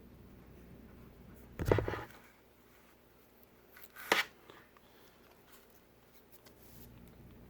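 Two brief handling noises from work on a tablet at the bench: a dull knock with a short rustle about one and a half seconds in, then a sharper click about four seconds in, over quiet room tone.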